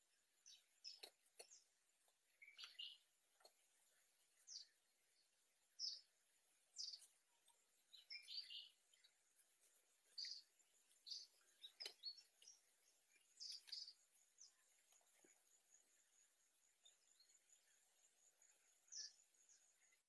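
Faint bird chirps: short high calls scattered irregularly, several bunched around the middle, with a few soft clicks among them.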